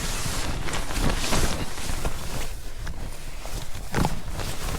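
Strong wind buffeting the microphone and rustling the fabric of a bothy bag shelter, a dense, steady rush with a few short rustles.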